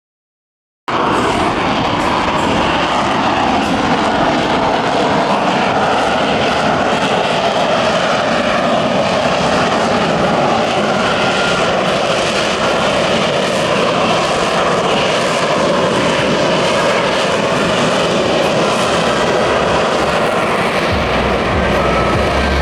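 F-35B's Pratt & Whitney F135 jet engine running loud and steady, with a faint high whine over the roar. It cuts in suddenly about a second in, and a deeper rumble builds near the end.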